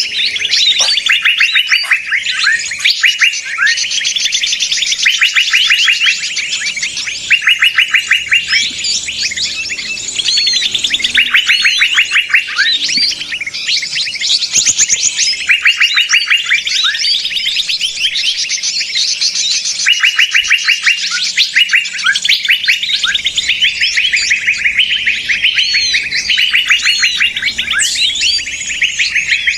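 Bird-lure recording of many small songbirds calling noisily together: overlapping fast chattering trills and sweeping chirps in bursts every second or two, over a faint steady hum. This busy chatter is played to draw wild birds in for catching.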